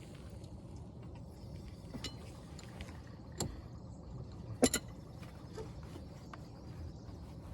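A few sharp clicks and knocks from hand work on a brake assembly, the loudest a quick double click about halfway through, over a steady faint background hiss.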